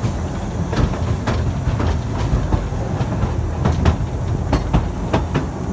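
Amusement-park train running on its track: a steady low rumble with irregular clicks and knocks of the wheels over the rails.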